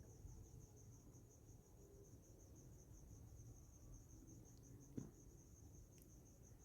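Faint, steady cricket chirping: a high, even pulsing repeating several times a second, with a single faint click about five seconds in.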